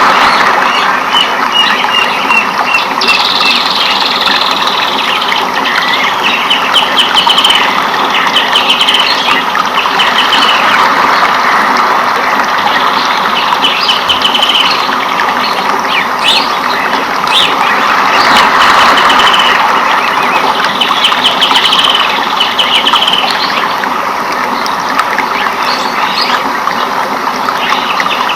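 Rainforest ambience: birds calling in short, quick chirping trills that repeat every few seconds over a loud, steady hiss.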